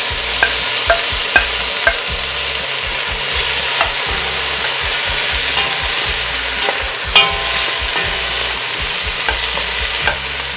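Chopped tomatoes and onions sizzling in hot ghee in a pan while being stirred with a wooden spatula. The spatula ticks lightly against the pan about twice a second in the first two seconds, and a few more times later.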